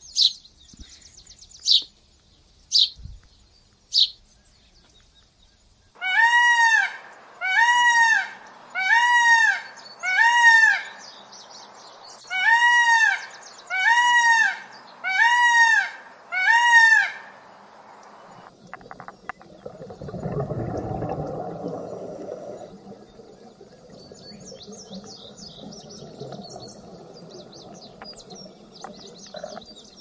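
A few short sparrow chirps, then a peacock (Indian peafowl) calling loudly eight times, each call a short arching wail, in two runs of four. A low, even rushing noise follows.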